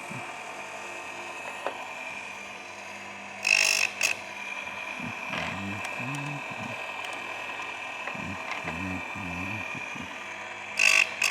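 Baumr-AG electric chainsaw sharpener's grinding wheel spinning with a steady whine, twice ground briefly into a chain tooth: once about three and a half seconds in and again near the end, each a loud rasp of about half a second.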